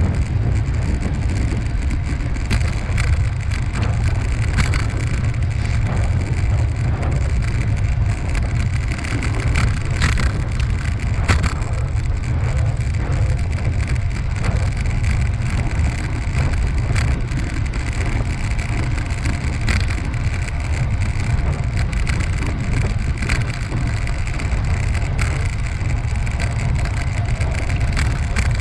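Steady deep wind rumble on the microphone with rolling tyre noise from a bicycle ride, and scattered clicks and rattles from bumps along the path.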